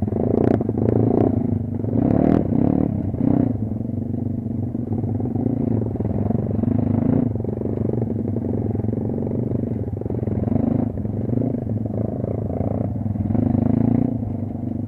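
Kayo off-road motorcycle engine running under changing throttle, its note swelling and dropping every second or two, with a few sharp knocks in the first few seconds.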